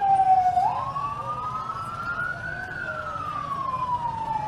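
Siren wailing slowly: the pitch falls, jumps up about a second in, climbs for about two seconds, then falls again.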